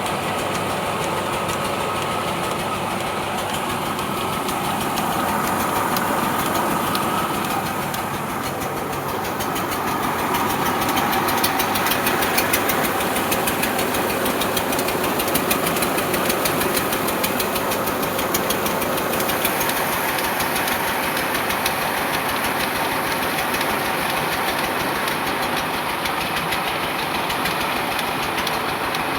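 Tractor's diesel engine running steadily, swelling a little louder twice.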